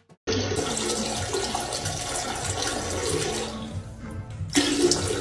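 Water rushing steadily, fading after about three seconds, with a louder burst of noise near the end.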